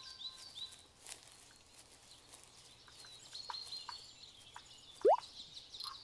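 Woodland birds singing, with repeated short high chirps. About five seconds in, a single short rising swoosh is the loudest sound.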